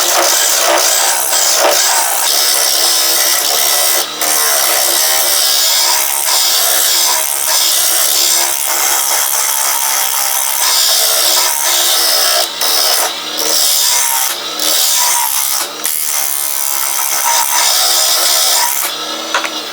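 Wen mini wood lathe spinning a wood blank while a turning chisel cuts it, a steady loud scraping and hissing that dips briefly now and then as the tool eases off. The sound falls away near the end.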